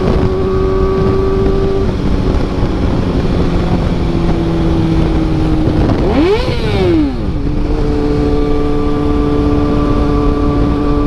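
Kawasaki ZX-6R inline-four through an SC-Project CRT carbon exhaust, idling loud and steady, with one quick throttle blip about six seconds in: the revs rise and drop straight back to idle.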